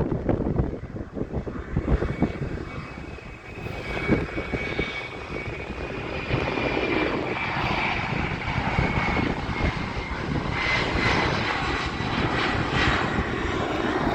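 Jet airliner engines running nearby: a steady high whine that slowly drifts down in pitch over a rumbling roar, which grows fuller about six seconds in. Wind buffets the microphone.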